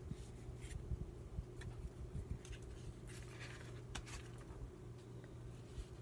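Faint rustling and light taps of paper pieces being handled and placed on a journal page, over a steady low hum.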